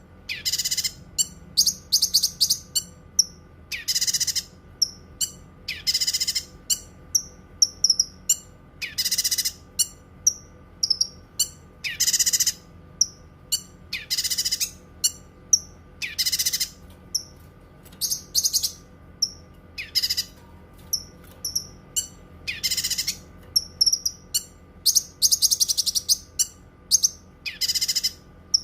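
Cucak kinoi, a leafbird, singing: harsh, raspy high phrases about half a second long, roughly every two seconds, with short sharp chirps and clicks in between.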